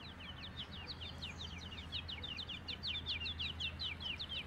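A bird singing a fast, continuous run of short falling chirps, about eight a second, growing louder in the second half.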